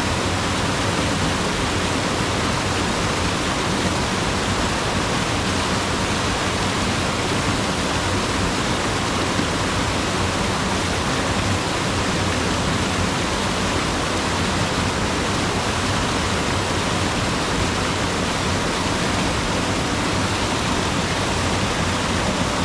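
Mountain river rushing steadily over rocks, a continuous even roar of water with no breaks.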